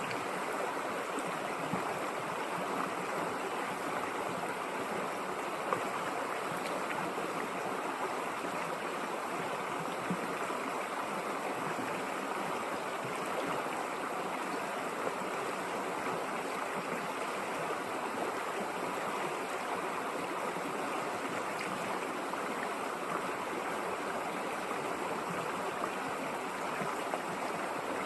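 River water flowing and rushing over rocks, a steady even rush with small splashes.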